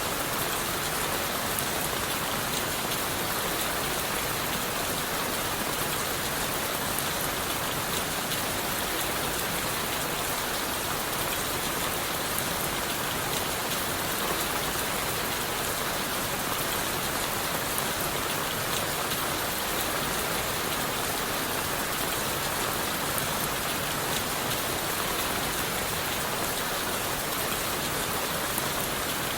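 Steady rain falling on leaves and wood in a forest, an even hiss with individual drops tapping through it.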